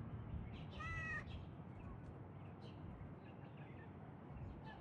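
A cat meowing once, a short high call about a second in, over a steady low background rumble.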